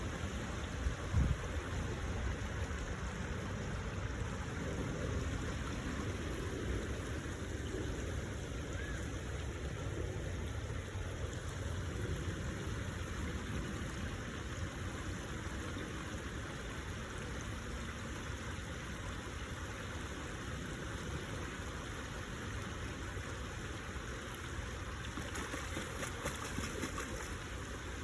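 Stream water flowing steadily, with a short low thump about a second in.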